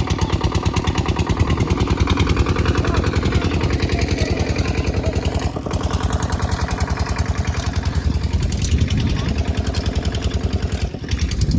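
Engine of a small vehicle running with a fast, even pulse, heard from on board.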